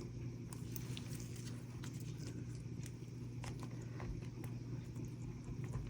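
Faint, scattered light clicks and taps of small resin succulent pieces being handled and pressed onto the resin-coated gravel, over a steady low hum.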